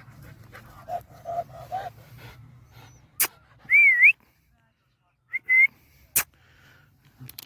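A dog whimpers four times in quick succession, then two loud whistles follow: a short wavering note and a shorter rising one. Two sharp clicks come between them.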